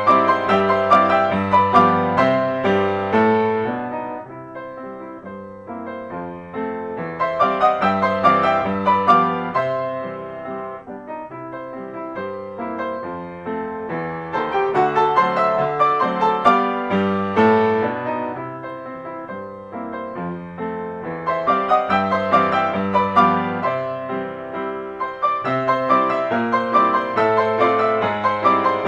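Background piano music: phrases of many notes swelling louder and easing off roughly every seven seconds.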